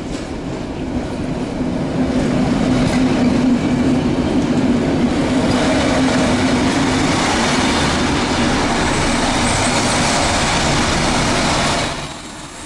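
Passenger train pulling in alongside the platform close by: a loud steady rumble of wheels and running gear with a low hum, building over the first two seconds and cutting off suddenly near the end.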